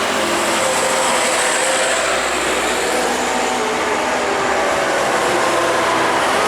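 Heavy truck driving past: steady road noise from tyres and engine, with a faint engine drone that drifts slightly in pitch.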